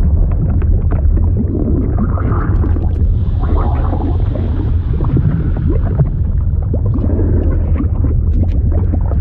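Liquid sound effect: a deep, steady rumble with gurgling and many small bubbling clicks, like moving water heard from below the surface.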